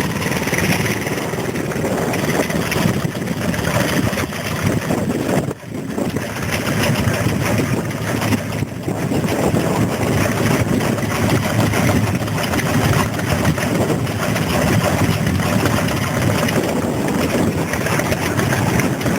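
Vintage stationary engine running steadily, with a brief dip in the noise about five and a half seconds in.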